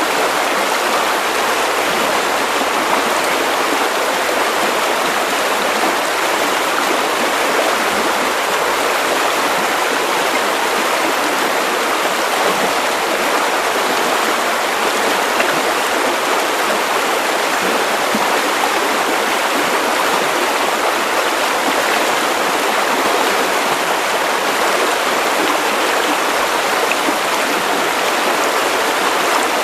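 Steady white noise: an unbroken, even hiss with no low rumble, unchanging throughout.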